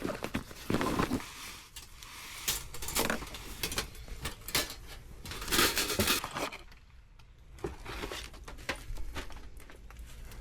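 Camping gear being handled and set up: irregular rustling and crinkling with light knocks and metallic clicks, louder in a few clusters, the biggest about five to six seconds in.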